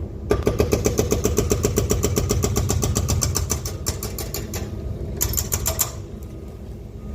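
Excavator diesel engine running with a fast, even mechanical rattle of about ten strikes a second. The rattle stops about four seconds in and returns briefly a second later.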